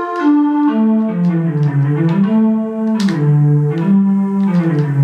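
Travel Sax 2 electronic wind instrument playing its "Lead 3" synthesizer lead preset: a melody of sharp-attacked, bright notes moving up and down over a lower moving line.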